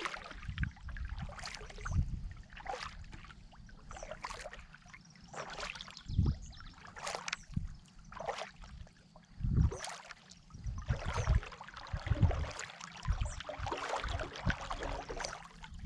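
Kayak paddle blades dipping and pulling through lake water in a steady rhythm, one splashy stroke about every second and a half, with water trickling off the blades between strokes.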